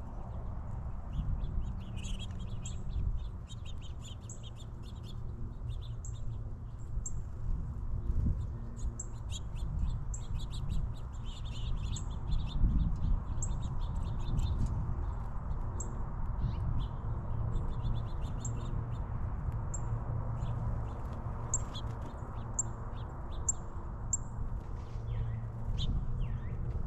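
Small songbirds chirping and calling at backyard feeders: many short, high chirps throughout, over a steady low rumble and hum.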